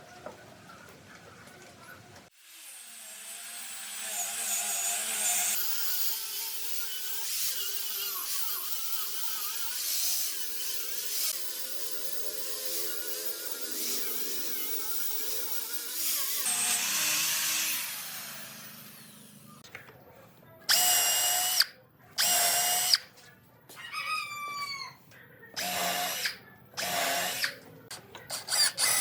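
Power tool working on the wood of an old workbench, running for about fifteen seconds, then several short bursts near the end.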